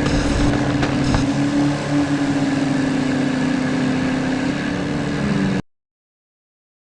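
Tractor diesel engine running steadily, then cutting off suddenly near the end.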